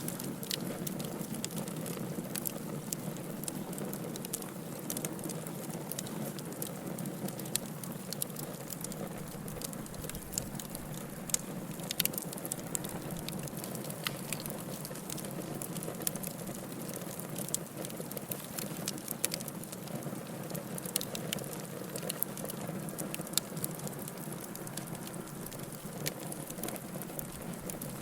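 Wood fire burning in a fireplace: a steady low rush of flames with frequent irregular crackles and a few louder, sharper pops.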